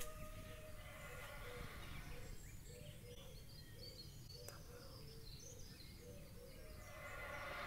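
Faint outdoor recording of a reported strange sky noise: a low, wavering tone over background hiss, with birds chirping.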